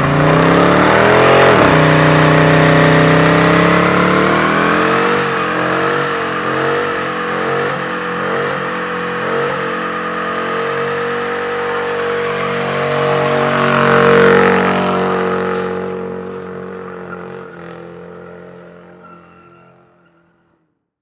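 A car engine revving hard during a tyre-smoking burnout. The pitch climbs over the first couple of seconds, then holds high with small surges. It fades away over the last several seconds.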